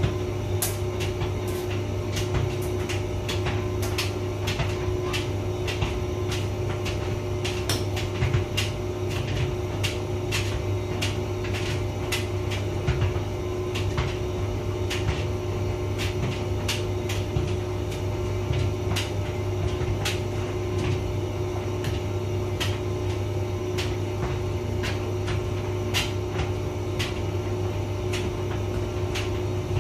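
Hotpoint vented tumble dryer running: a steady motor hum with irregular clicks and knocks throughout, from the load tumbling in the drum.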